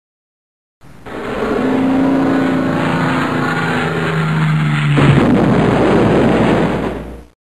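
Vehicle engine sound effect: a steady hum whose pitch steps down about four seconds in, then turns rougher and noisier about a second later before cutting off suddenly near the end.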